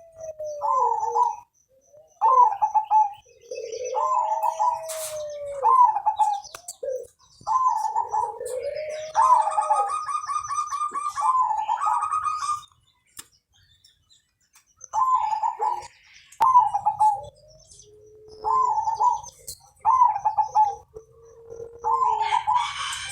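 Zebra dove (perkutut) singing: repeated phrases of soft staccato cooing notes, each opening on a low arched coo and followed by higher clipped notes. A brief rapid trill comes in about ten seconds in, and the song pauses for a couple of seconds after it.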